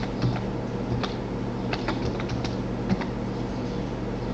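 Computer keyboard being typed on: irregular key clicks as text is entered into a form, over a steady low hum.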